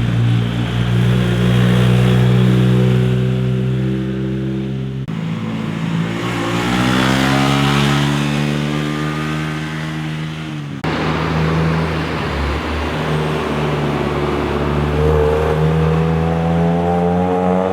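Motorcycle engines running and accelerating, in three stretches joined by abrupt cuts about five and eleven seconds in. The engine note holds steady at first, then climbs in pitch under acceleration in the second stretch and again toward the end.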